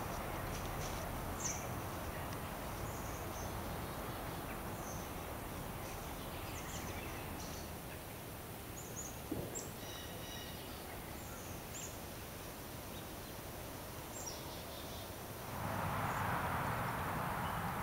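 Small woodland birds chirping, with short, high calls scattered throughout, over a steady outdoor hiss that grows louder near the end.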